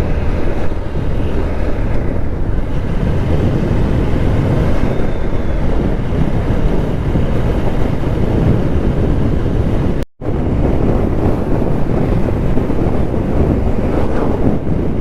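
Wind buffeting the microphone over the rumble of a motorcycle riding at speed, a steady rushing noise. It cuts out for a moment about ten seconds in, then resumes.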